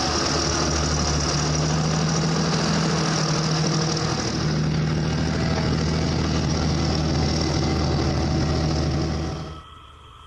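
John Deere 8520T track tractor's six-cylinder diesel engine running steadily, then cut off suddenly near the end, leaving a much quieter steady hum.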